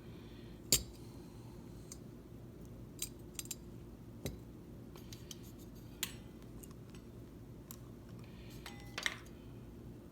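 Small metal carburetor parts being handled and set down on a workbench: a handful of sharp clinks and taps, the loudest about a second in, over a faint steady low hum.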